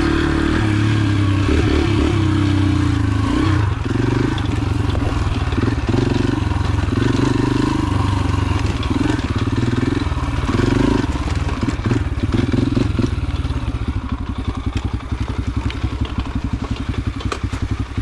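Yamaha TT-R125's single-cylinder four-stroke engine running while riding, the throttle opening and closing about once a second. Near the end it settles to a lower, even pulse at lower revs.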